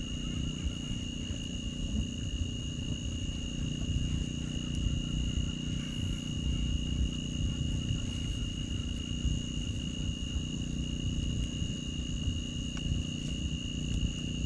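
Low, gusting rumble of wind and surf on an open beach, under a steady high-pitched whine held on two unchanging notes, like insects droning.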